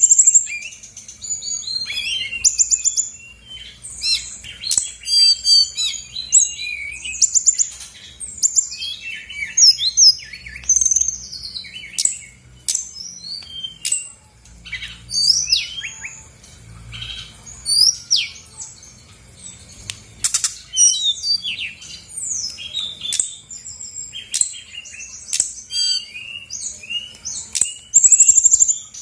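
Brown-chested jungle flycatcher (sikatan rimba dada coklat) singing a rapid, varied song of high chirps, sweeping whistles and short trills, almost without a break.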